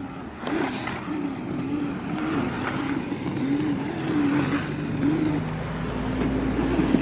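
Electric mini dirt bike's motor whining, its pitch rising and falling again and again as the throttle is worked while the bike does donuts in the snow. Near the end a steadier, lower hum and a deep rumble come in.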